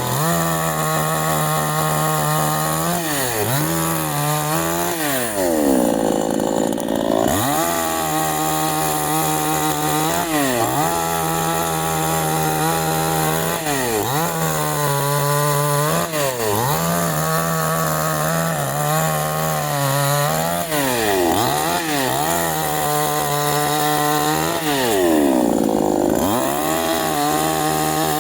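Canfly 5800 two-stroke chainsaw cutting wood at full throttle, its engine pitch repeatedly sagging and recovering as the chain bites. It drops back to idle twice, about six seconds in and near the end.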